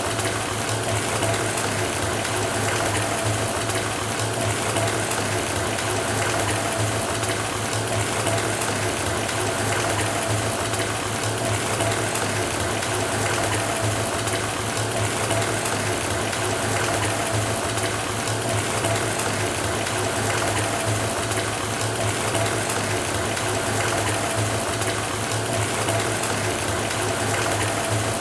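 Bathtub filling from the tap: water pours steadily into the tub, with a steady low hum under the rushing.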